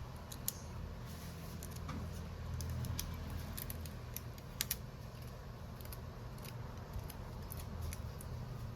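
Scattered small, sharp clicks and ticks of hand tools working on a smartphone during a screen replacement, with a short cluster of clicks about halfway through, over a steady low hum.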